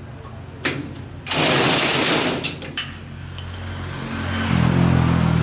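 A small engine running with a steady low hum that grows louder and rises in pitch near the end. Just over a second in, a loud hiss lasts about a second.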